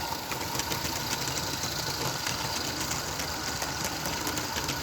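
Live-steam model locomotive running on a garden railway track: a steady mechanical run of quick exhaust beats and light, irregular clicks.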